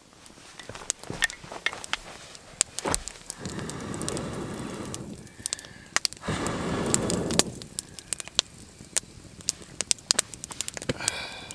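Wood campfire crackling and popping, with many sharp irregular snaps. Twice, a few seconds in and again past the middle, a longer rushing noise swells up for a second or so under the pops.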